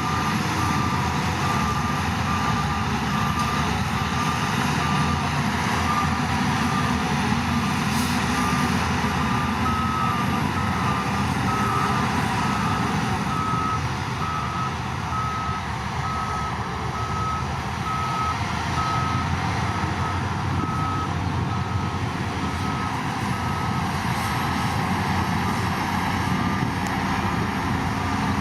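Reversing alarm of heavy earthmoving machinery beeping in a steady, even rhythm at a single pitch, over the low, continuous running of a diesel engine.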